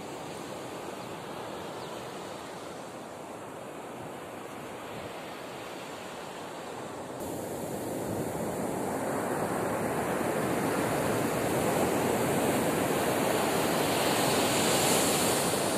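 Ocean surf washing on the beach, a steady rushing that swells louder in the second half.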